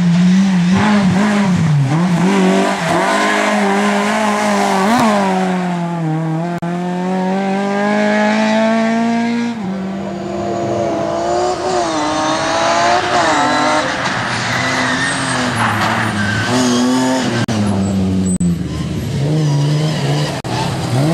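Rally car engine at racing revs, its pitch repeatedly climbing and dropping through gear changes and lifts. A little before halfway the sound changes abruptly, as if to another car or another spot on the stage.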